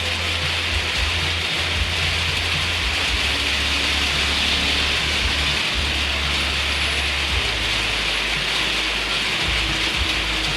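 Steady rain falling, an even hiss, with a low rumble underneath that drops in and out.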